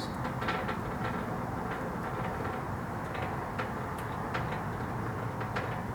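Scattered light metal clinks and ticks from an engine hoist and the engine as it is lowered into a car's engine bay, over a steady low rumble.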